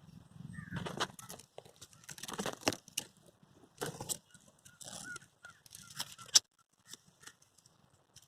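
Several bursts of dry rustling and crackling, ending with a sharp click about six seconds in, then quiet.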